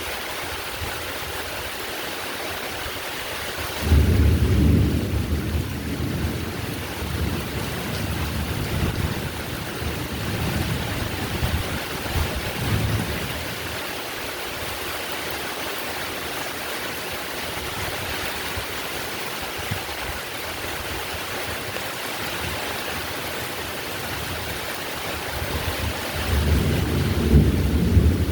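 Steady heavy rain with rolling thunder. A low rumble of thunder breaks in suddenly about four seconds in and dies away over the next ten seconds, and another starts building near the end.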